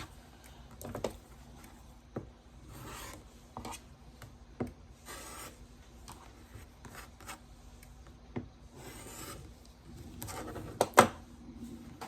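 Quilting fabric and small tools handled on a work table: several short scraping strokes, a few light clicks, and one sharper knock near the end.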